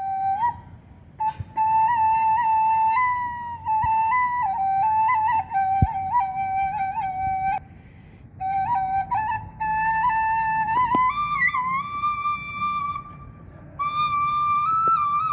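Bamboo suling flute playing a stepped melody in phrases, breaking off briefly between phrases. A single sharp knock sounds about six seconds in.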